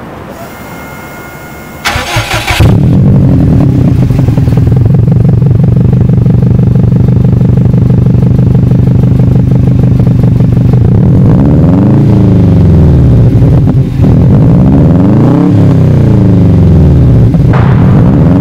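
2003 Subaru WRX's turbocharged flat-four breathing through an Invidia N1 cat-back exhaust and catless downpipe: the starter cranks, the engine catches about two and a half seconds in and idles steadily, then it is revved up and let fall back three times in the second half.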